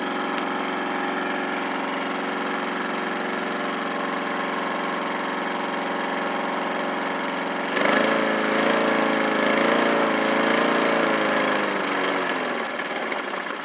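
Small petrol lawn mower engine running steadily, then about eight seconds in it suddenly revs up louder and higher. It runs hard for a few seconds, then slows and dies away near the end.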